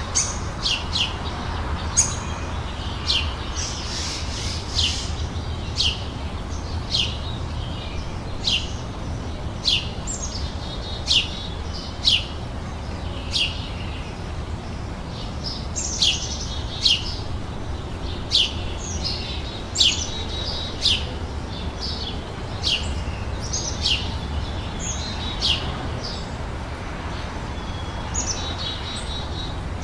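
Songbirds chirping outdoors: short, sharp chirps that drop in pitch, about one or two a second, with a few brief warbled phrases. Under them runs a steady low rumble.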